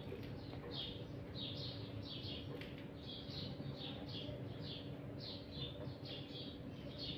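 Small birds chirping over and over, short high chirps about two or three a second, over a steady low hum.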